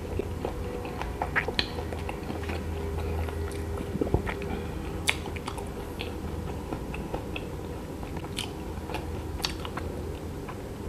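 Close-miked mouth sounds of a person chewing the last bite of a chocolate-coated KitKat ice cream bar, with many small wet clicks and smacks. A low steady hum runs underneath.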